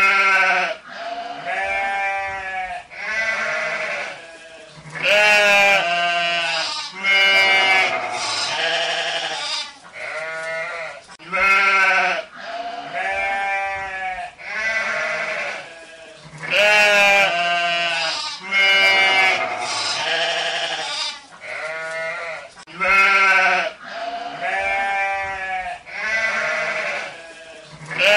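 Sheep bleating over and over, a run of wavering calls one after another, some higher and some lower in pitch.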